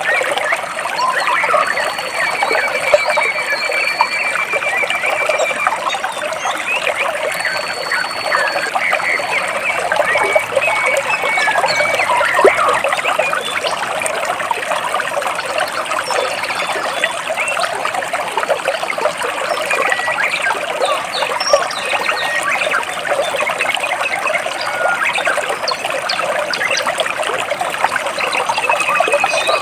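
Water trickling and splashing steadily between rocks, with birds chirping now and then over it: a few thin, high whistled notes and short trills.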